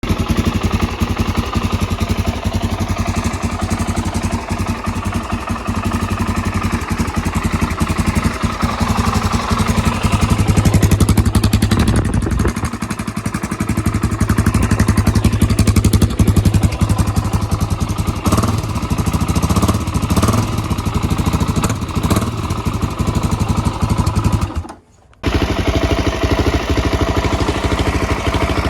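Suzuki DR-Z400S single-cylinder four-stroke engine running through an aftermarket Akrapovic full exhaust system, mostly at a steady idle with a few rises and falls in revs around the middle. The sound breaks off for under a second near the end, then the engine is heard again.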